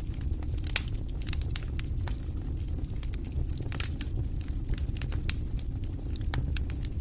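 Campfire wood crackling and popping irregularly over a steady low rumble, with one sharper pop about a second in.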